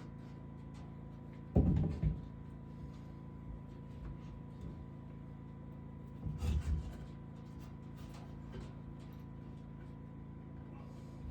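Two short bursts of heavy knocking, like wood being set down or bumped: a double knock about one and a half seconds in and a rattling cluster about six and a half seconds in, over a steady low hum.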